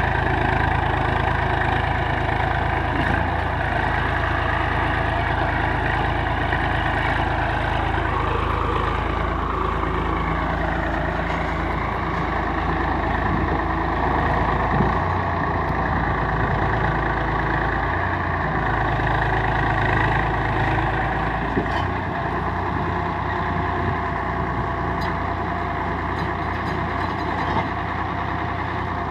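Swaraj 855 FE tractor's three-cylinder diesel engine running steadily while pulling a seven-tine chisel plough; its pitch sags briefly about ten seconds in and recovers.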